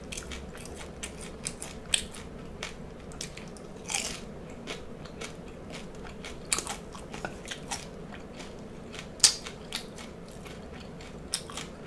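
Chewing and crunching of deep-fried salt and pepper shrimp eaten with the shell on, the crisp fried shell cracking in irregular short crunches, the sharpest about two seconds in and about nine seconds in.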